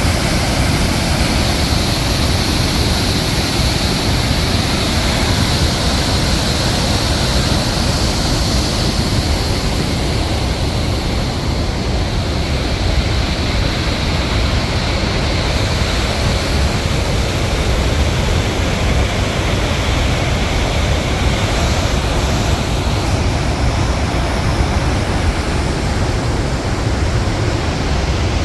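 Krimml Waterfalls: the steady roar of a large waterfall, a dense rush of falling water with a deep rumble underneath.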